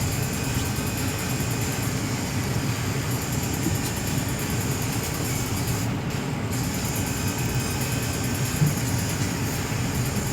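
A moving car's engine and tyres rumbling steadily, heard from inside the cabin.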